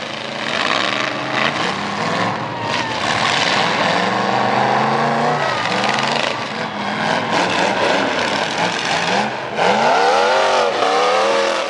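Pickup truck V8 engine running through a loud exhaust, its revs rising and falling several times, with one big rev near the end.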